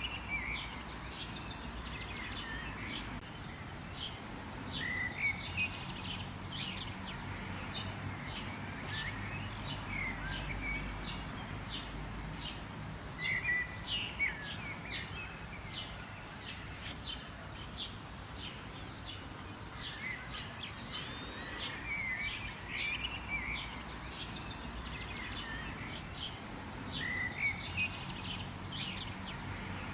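Several birds chirping and calling in a dense run of short, quick notes and brief trills, with a steady low background rumble beneath.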